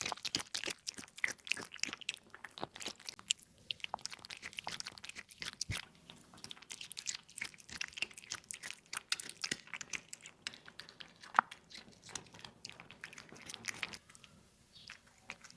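Cat chewing its food at close range: a fast, uneven run of crunching clicks that stops about a second and a half before the end.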